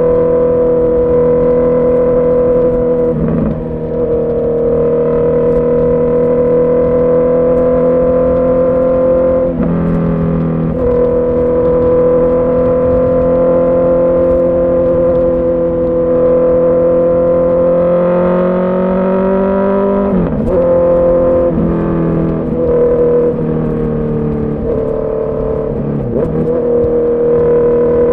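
Honda CB650R's inline-four engine and exhaust running at a steady cruise. The note breaks and dips briefly about four times. About two-thirds of the way in, the revs climb for a few seconds, then fall away sharply.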